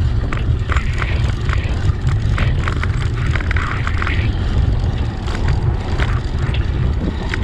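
Wind buffeting the microphone of a moving bicycle, a loud steady low rumble, with faint scattered ticks over it.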